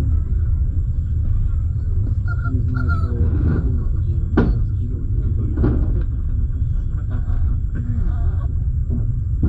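Low steady rumble of a double-decker passenger train rolling over station tracks, heard from inside the coach, as it pulls into the station. Wheels knock sharply over rail joints or switches twice, about four and a half and about six seconds in, with a few short squeaks of wheel on rail before that.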